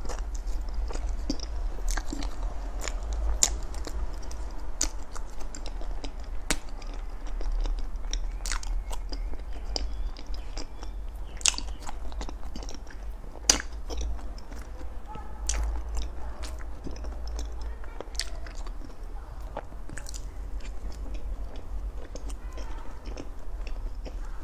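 Close-miked chewing and wet mouth sounds of soft matcha-dusted dessert and cream, with sharp lip smacks and clicks at irregular moments throughout.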